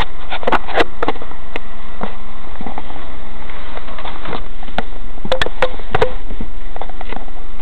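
Mazda 3 engine running with a steady hum, broken by irregular sharp clicks and knocks, several close together about five to six seconds in. The owner takes the knocking for a failed engine mount.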